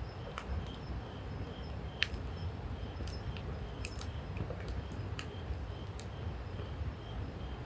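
Wood campfire burning, with a low steady rumble and scattered sharp crackles and pops from the burning wood, the strongest about two seconds in. A faint insect chirps at an even pace behind it.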